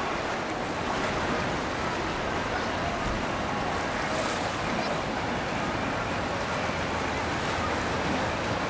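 Steady rush of river water and wind noise on the microphone, with a low rumble from boats on the water.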